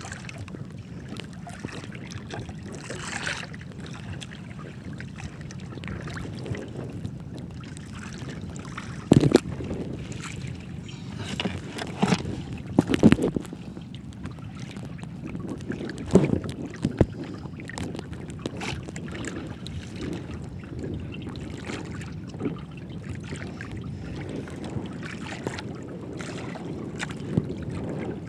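Water sloshing against a small boat's hull with wind on the microphone, broken by a few sharp knocks about nine, twelve, thirteen and sixteen seconds in.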